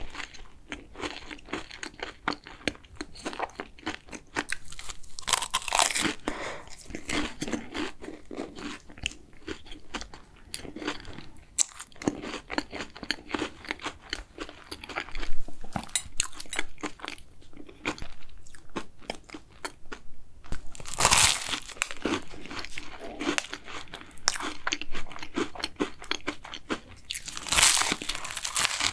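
Close-miked chewing of cookie choux pastry: crisp crackles of the crunchy cookie crust between moist mouth sounds, with a few louder bites.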